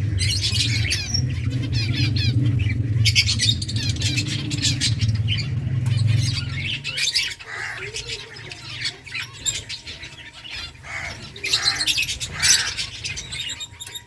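A colony of finches chirping and calling busily, with many quick high chirps overlapping. A low hum underneath cuts off about halfway through.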